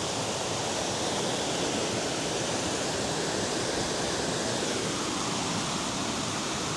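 Waterfall crashing steadily, a constant rushing roar of falling water.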